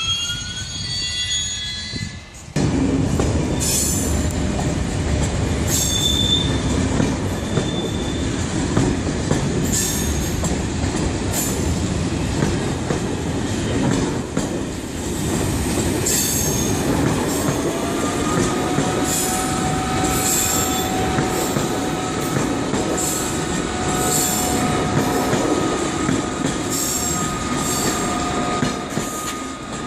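A train passing close by, its wheels rumbling over the track, with regular clicks and high-pitched wheel squeal. The rumble starts abruptly about two and a half seconds in, and a steady two-tone squeal sets in past the halfway point.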